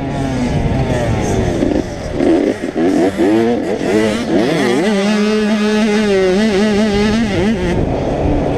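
85cc two-stroke motocross bike engine revving hard, its pitch rising and falling through throttle blips and gear changes, then held at a steady high pitch for a couple of seconds before dropping off near the end.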